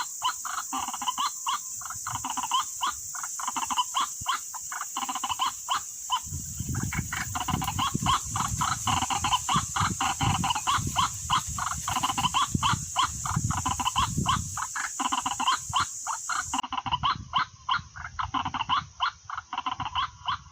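White-breasted waterhen (ruak-ruak) calling: a fast, unbroken run of harsh croaking notes. A low rumble joins about six seconds in.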